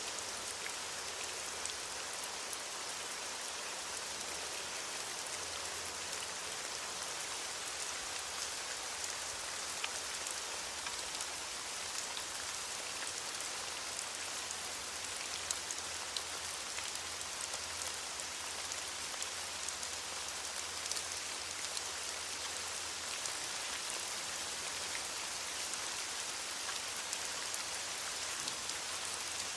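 Steady rain falling on leaves, a constant hiss with many small drop ticks.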